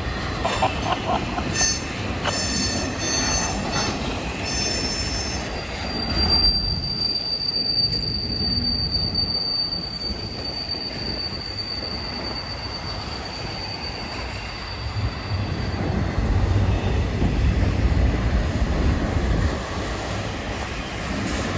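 Union Pacific freight train rolling past, its cars rumbling on the rails with high-pitched wheel squeal: a run of pulsing squeals in the first few seconds, then one long steady squeal lasting about ten seconds.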